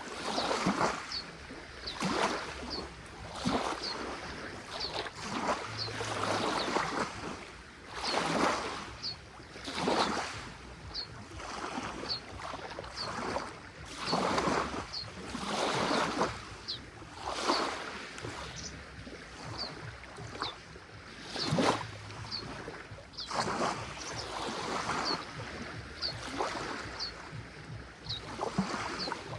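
Small waves of Lake Ohrid washing onto the shore, one wash every second or two. A short high chirp repeats about once a second.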